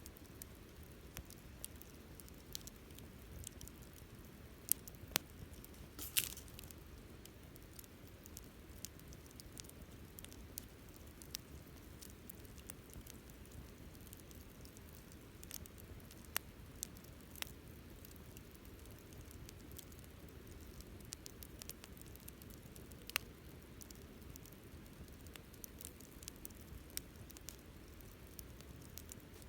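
Wood campfire crackling softly, with scattered sharp pops; a louder pop comes about six seconds in and another a little after twenty seconds.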